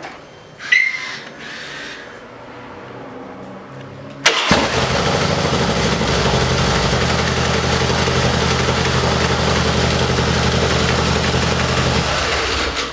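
Harley-Davidson Dyna V-twin started on the electric starter about four seconds in, catching at once without the compensator's ratcheting clatter, then idling steadily; the starter compensator is newly replaced. The engine cuts off just before the end. A short noise comes first, about half a second in.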